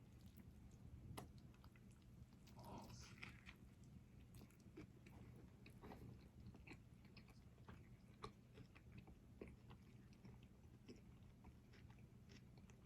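A person faintly biting and chewing burger and fries close to the microphone: irregular soft clicks and crunches of the mouth, busiest about three seconds in.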